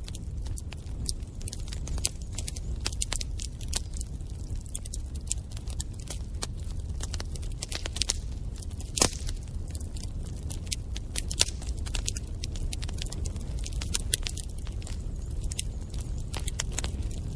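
Wood fire in a fireplace crackling and popping continuously over a low rumble, with one sharper pop about nine seconds in.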